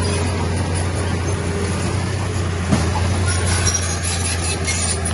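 Heavy diesel earthmoving machinery running steadily with a deep constant drone, with a single short knock about halfway through.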